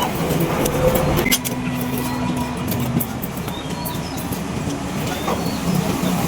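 A motor vehicle running steadily, with a few light clicks.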